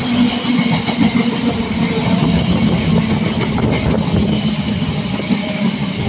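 Freightliner freight train passing at speed behind a pair of Class 90 electric locomotives: steady, loud rolling of wagon wheels on the rails.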